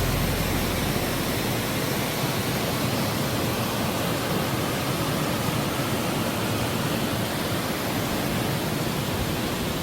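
Steady rush of a mountain valley stream, an even noise of water with no breaks.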